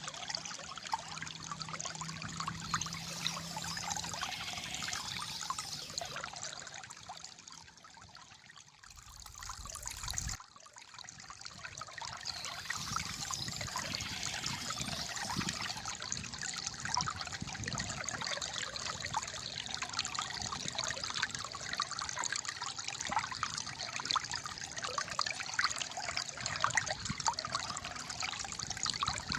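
Shallow water trickling and gurgling over stones in a steady flow. It drops quieter for a few seconds about a third of the way in, then comes back suddenly.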